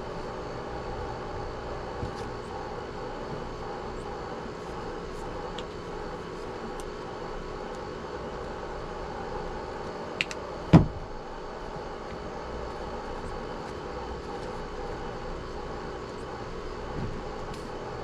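A steady engine-like drone with several fixed tones, and a sharp click followed by a thump about ten seconds in.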